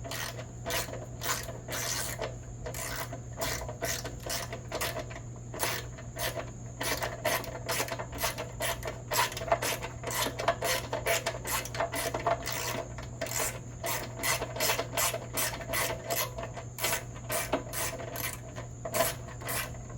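Quick repeated scraping and rubbing strokes, about two or three a second, of hand work on small metal parts, over a steady low hum.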